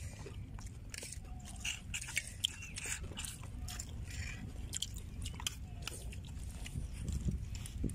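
Close-up eating sounds: chewing, with many small sharp clicks and crackles from fried fish being bitten and picked apart by hand.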